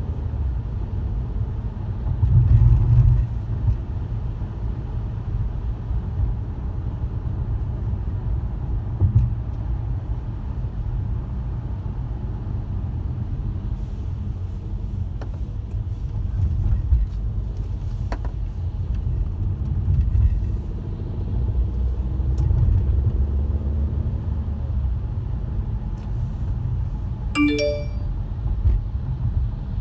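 A car driving, with a steady low road and engine rumble and a few faint clicks. A short chime sounds near the end.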